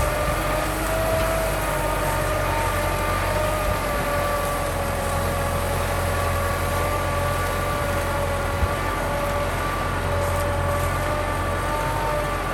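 Kubota M6040 tractor's diesel engine running steadily under load while plowing, with a steady high whine over the low engine sound. There is one short click about eight seconds in.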